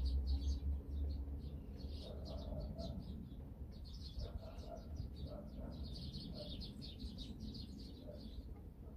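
Small birds chirping, many short high calls in quick succession, thickest in the second half, over a low rumble that is strongest at the start.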